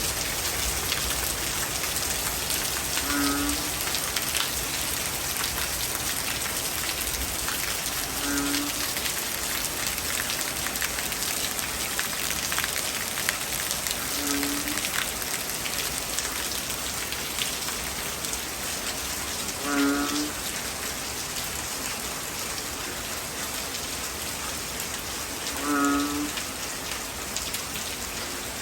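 Heavy rain falling steadily. A short, low call with a stack of overtones sounds five times, about every five to six seconds, the last two louder.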